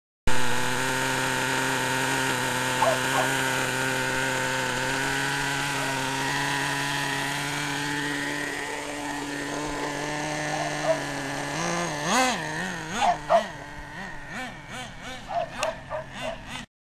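Team Infinity .21 nitro engine of an RC buggy running flat out, a steady high buzz. About twelve seconds in the note starts wobbling up and down in quick swells as the revs rise and fall, then it cuts off suddenly near the end.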